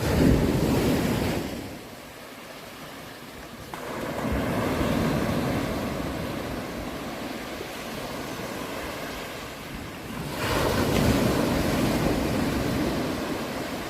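Sea waves washing onto a shore, a rushing noise that swells and ebbs: one surge right at the start, a longer one from about four seconds in, and another about ten seconds in.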